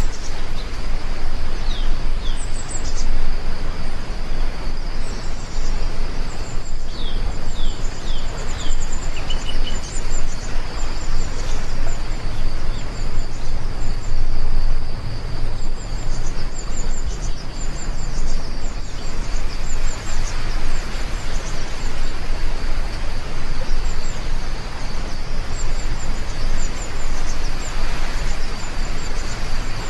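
Heavy rain falling steadily, a dense even hiss, with birds chirping in quick high series through it, most busily in the first several seconds. A steady high-pitched tone runs beneath the chirps.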